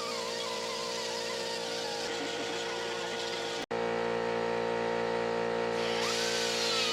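Angle air die grinder with a 40-grit disc grinding off the rivet heads that hold a power window regulator, its pitch wandering as the disc bites. The sound breaks off for an instant a little past halfway.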